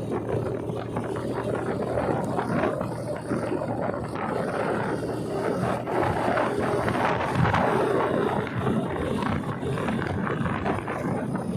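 Motorcycle running at road speed with a steady low engine hum, and wind rushing over the microphone.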